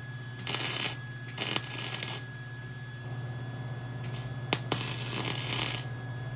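Arc welder crackling in three short bursts, each about a second long, with a couple of sharp clicks before the last. This is stitch welding on thin frame metal: a little weld at a time with pauses to cool, so the metal doesn't drip or burn through.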